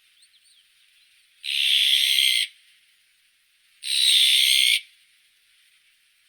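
Azure-winged magpie giving two harsh calls, each about a second long, about two seconds apart, with a few faint high chirps before them.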